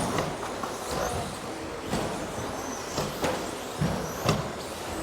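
Radio-controlled racing trucks driving on a track: motors whining up and down in pitch, with several sharp knocks, the loudest about four seconds in.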